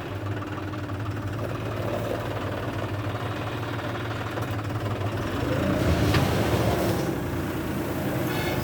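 John Deere 5210 tractor's three-cylinder diesel engine running steadily, working harder and louder about six seconds in before easing back.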